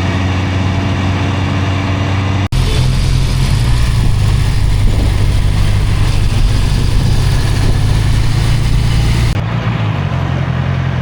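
Honda CB650R's inline-four engine running on the road, mixed with wind and road noise. The sound breaks off for an instant about two and a half seconds in and comes back louder and rougher, then changes again near the end.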